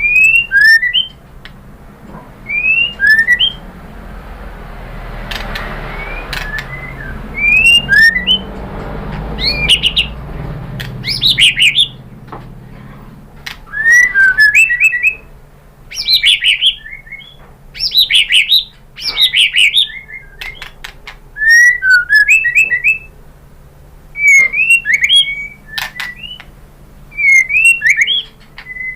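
White-rumped shama (murai batu) singing short, loud phrases of quick whistled and chirped notes, one burst every couple of seconds. A faint hiss lies under the song for a few seconds in the first half.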